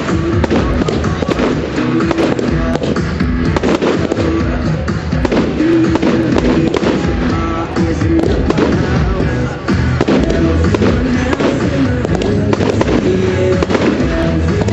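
Fireworks going off in quick, repeated bangs and crackles over loud music.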